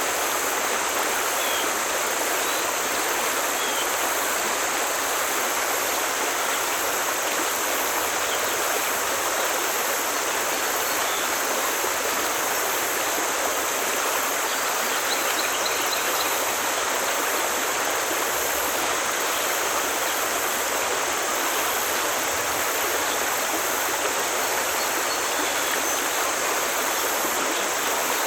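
Forest stream flowing, a steady, even rush of water that holds the same level throughout.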